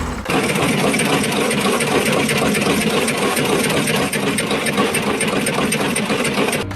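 A machine running steadily with a fast, even clatter, which cuts off suddenly near the end.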